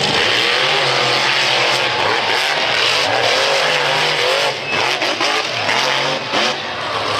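Monster truck engine running loud, its revs rising and falling again and again.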